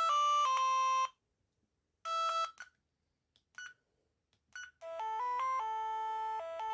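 Amstrad S288 mobile phone playing ringtone previews through its small speaker. A synthesized tune of stepped notes stops about a second in, a few short snippets start and cut off, and a new tune begins at about five seconds.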